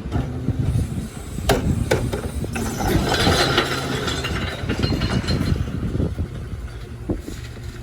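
Rear-loader recycling truck at work: sharp knocks and a rattling clatter of recyclables being tipped into the rear hopper, over the truck's engine running.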